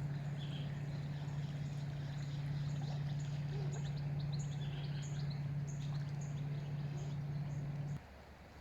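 Small birds chirping in short repeated high notes over a steady low hum, which cuts off abruptly near the end.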